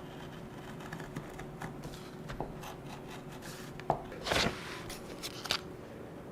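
Magazine paper being handled, with scattered short rustles, scrapes and clicks and one louder rustle about four and a half seconds in.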